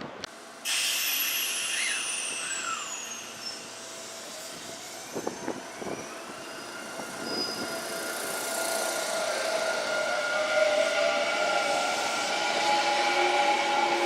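Kintetsu electric train at the station. It comes in suddenly, with a high whine falling over the first few seconds, then rising and steady motor tones that grow louder toward the end.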